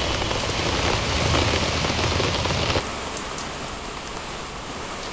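Steady rain falling, a dense even hiss of drops; it becomes quieter about three seconds in.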